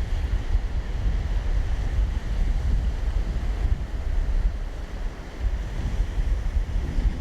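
Wind buffeting the microphone outdoors: a gusty low rumble that rises and falls unevenly, with no steady tone above it.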